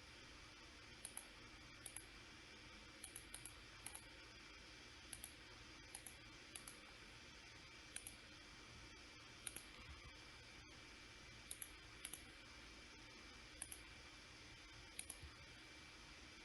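Computer mouse clicking at irregular intervals, single clicks and quick double clicks, over a faint steady hum.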